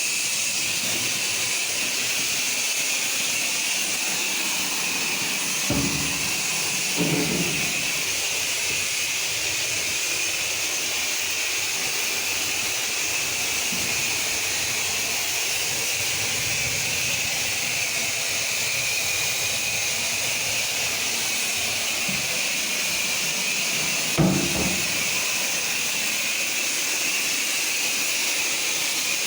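Pressure washer spray hissing steadily against a surface. A few brief knocks cut in, the loudest about 24 seconds in.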